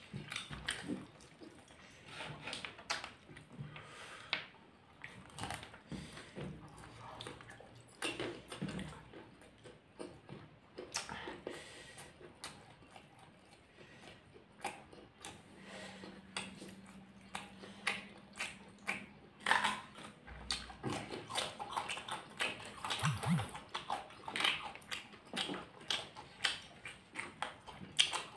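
Close-miked chewing: wet mouth clicks, smacks and soft crackles of people eating rice and vegetables, getting busier and louder over the last several seconds. A brief low hum sounds about halfway through.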